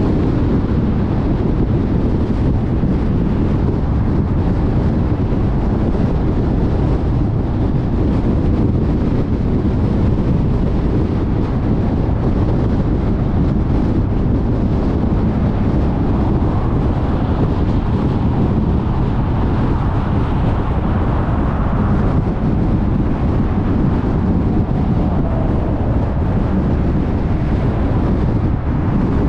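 Steady road noise of a car at freeway speed: a deep rumble of tyres on the road with wind rush over the car. A little extra hiss swells and fades about two-thirds of the way through.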